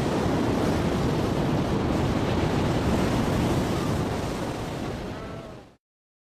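Ocean surf: a steady wash of waves that fades down and cuts to silence near the end.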